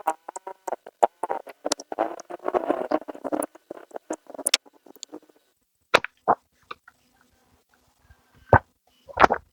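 Close rustling and crackling handling noise with many small clicks, then a few separate sharp knocks near the end.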